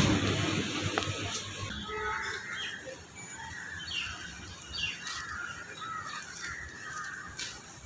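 Birds chirping: a handful of short, separate calls spread over several seconds against a quiet background.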